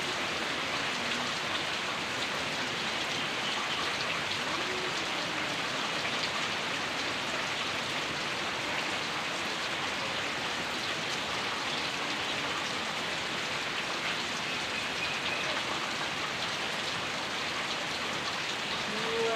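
Heavy rain pouring steadily, a dense even hiss of rain on surfaces.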